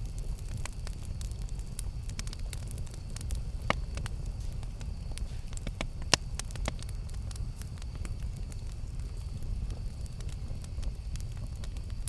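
Campfire crackling: burning wood giving off irregular sharp pops and ticks, the loudest about four and six seconds in, over a steady low rumble.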